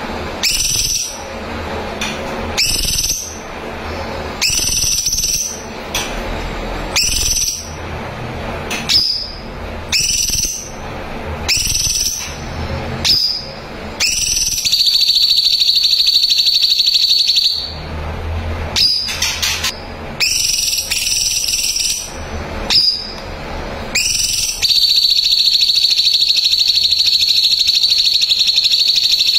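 A songbird calling: a run of short, high calls about once a second, then two long, steady, high trills, one of about three seconds and one of about five.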